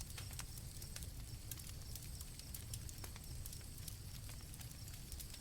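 Campfire crackling faintly, with irregular pops and snaps over a low steady rumble, and crickets chirping in a thin, steady high trill behind it.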